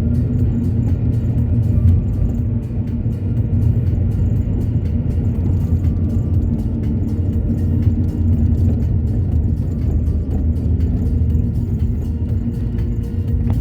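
Car driving on the road: a steady low rumble of engine and tyres.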